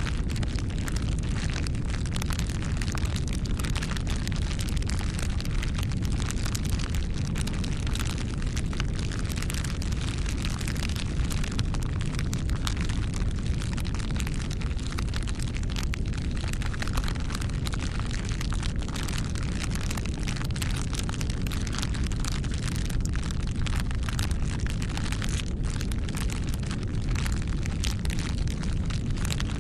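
Bonfire burning steadily: a low rumble of flames with dense, irregular crackles and pops from the burning wood.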